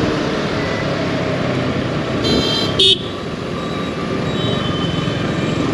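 Yamaha R15 V4's single-cylinder engine running steadily in city traffic. A high-pitched vehicle horn sounds a little over two seconds in, a longer toot followed by a short, louder blast.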